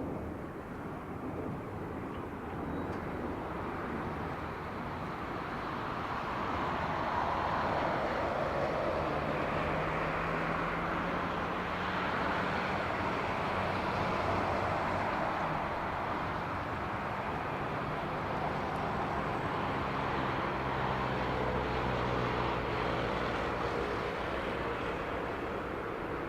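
Boeing 737-800 jet engines (CFM56-7B turbofans) running, a steady rushing sound with a low hum that swells about six seconds in and stays loud.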